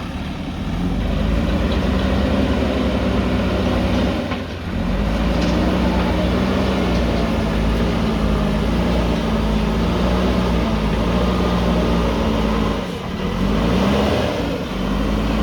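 JCB backhoe loader's diesel engine working under changing hydraulic load, its pitch rising and falling again and again. It drops off briefly about four and a half seconds in and again near thirteen seconds.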